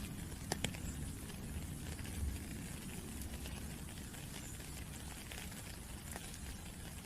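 Steady rainfall, with scattered drops pattering and two sharper drip clicks about half a second in, over a low rumble.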